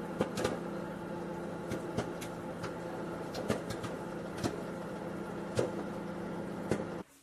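A small electric motor humming steadily, with light clicks and taps scattered over it; the hum cuts off suddenly near the end.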